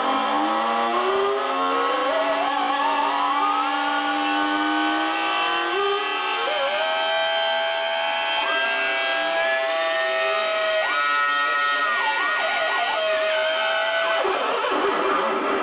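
Homemade 40106 CMOS hex-oscillator noise synth played through its small onboard speaker: several buzzy tones at once slide up and down in pitch and hold, over a steady hiss. About two-thirds of the way through one tone breaks into a fast warble, and the tones drop out shortly before the end.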